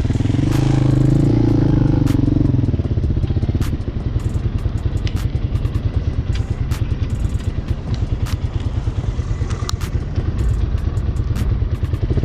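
Hawk 250 motorcycle's single-cylinder engine running on the move: it rises in pitch about half a second in, then drops back to a low, steady pulsing. Scattered sharp clicks sound throughout.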